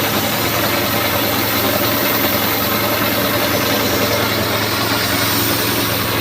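An engine running steadily at idle: a constant low hum with overtones and no change in pitch.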